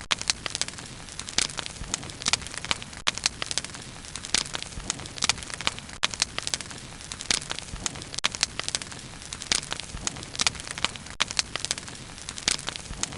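Wood bonfire burning steadily, with frequent irregular pops and crackles over a soft hiss of flame.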